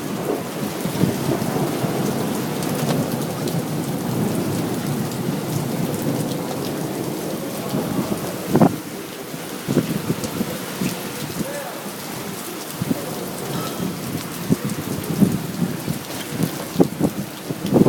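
Thunderstorm: steady rain with thunder rumbling, broken by a few sharp knocks, the loudest about halfway through.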